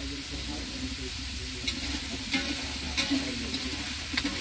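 Food frying in hot oil in a pan, a steady sizzle, with a utensil stirring and clicking against the pan a few times.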